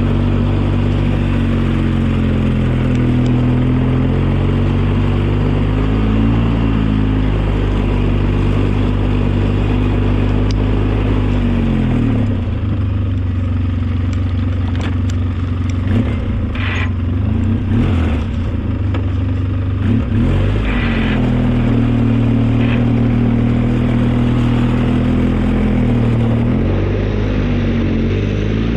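Engine of a snow-plowing vehicle running under load, holding a steady speed, then dropping lower for several seconds around the middle with a few clanks before picking back up.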